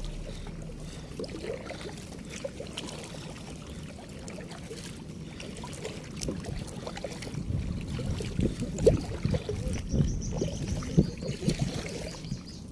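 Kayak paddling: water splashing and trickling off the paddle blades, with irregular low knocks and rubbing picked up by a phone held against the paddler's chest. It gets busier with strokes in the second half.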